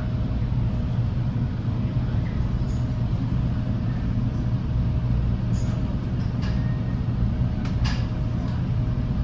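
Steady low rumble and hum inside an NJ Transit Multilevel rail coach as the train moves slowly along a station platform. A faint steady tone runs under it, with a few light clicks about two-thirds of the way through.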